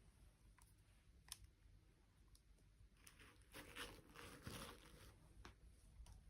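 Faint handling noises: a few light clicks, then a brief crinkling rustle about three seconds in that lasts a couple of seconds.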